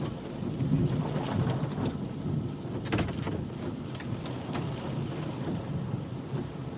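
Hail and rain striking a car, heard from inside the cabin: scattered sharp ticks over a steady low rumble, with a dense flurry of hits about three seconds in.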